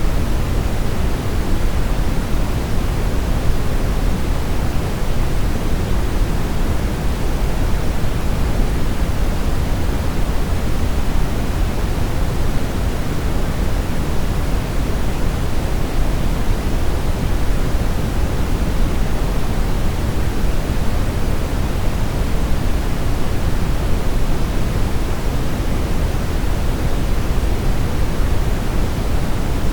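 Steady brown noise: an even, deep hiss with its weight in the low end, unchanging throughout.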